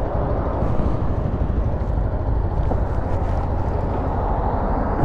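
Motorcycle on the move: steady engine rumble under a constant rush of riding wind on the microphone.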